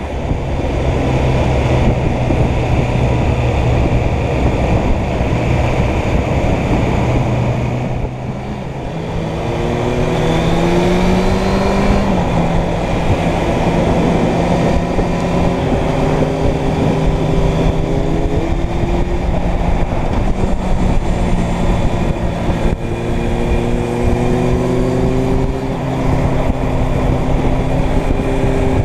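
Inline-four motorcycle engine pulling along the road, with wind rushing over the microphone. The engine eases off about eight seconds in, rises until a gear change drops it about twelve seconds in, and climbs again in the last few seconds.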